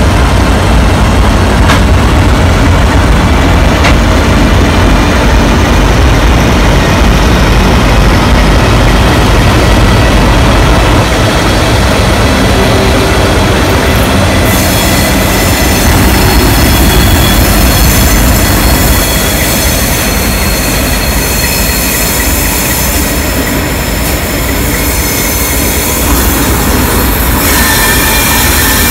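NSW 442 class and 44 class diesel-electric locomotives running past with a heavy low engine rumble. From about halfway the carriages roll by, and steady high-pitched wheel squeal rises over the rumble.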